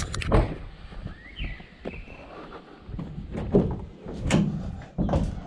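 Several separate knocks and thuds, with a short chirp about one and a half seconds in.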